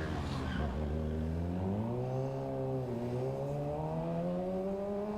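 Motorcycle engine running and accelerating, its pitch rising, dipping about three seconds in, then climbing slowly again.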